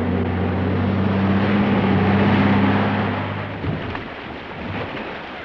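A vehicle engine running steadily, likely the expedition truck's, with a low hum and road or wind noise; it fades away about three and a half seconds in.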